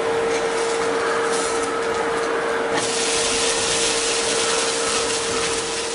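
Thalipeeth frying in ghee in a non-stick pan: a steady sizzle that turns louder and brighter about three seconds in, as the flatbread is flipped onto its uncooked side. A steady hum runs underneath.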